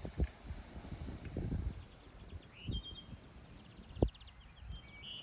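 Small birds chirping with quick repeated high notes, over scattered low knocks and one sharp thump about four seconds in.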